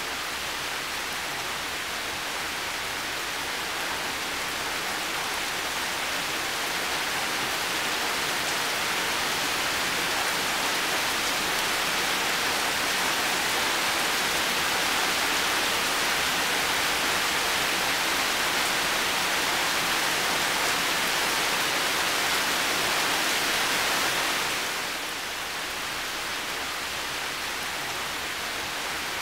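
Heavy rain falling in a steady hiss. It grows slowly louder, then eases back a little about 25 seconds in.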